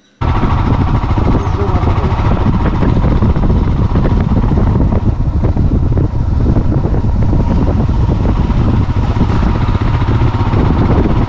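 Moving vehicle's running noise on the road, with a heavy rumble of wind on the microphone; it cuts in suddenly at the start.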